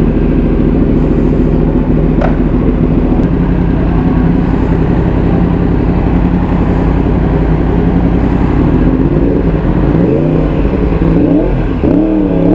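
Yamaha R1's crossplane inline-four, breathing through an Akrapovic titanium full exhaust system, running steadily, then revving up and down a few times near the end.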